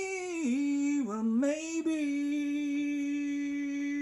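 A single unaccompanied voice singing a long held note. The pitch dips and wavers about half a second to a second and a half in, then holds steady.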